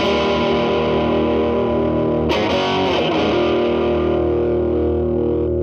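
Electric guitar (a Telecaster) through an MI Audio Crunch Box distortion pedal into a Marshall Valvestate amp's clean channel, strumming chords and letting them ring: one ringing from the start, a second struck about two seconds in and held. The pedal is at gain 10 with the guitar cleaned up to a light crunch.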